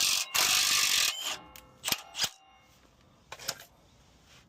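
Wrench and socket work on a 24 mm track bar bolt: a loud burst of metal-on-metal noise with a ringing tone, lasting under a second, then a few sharp metallic clicks.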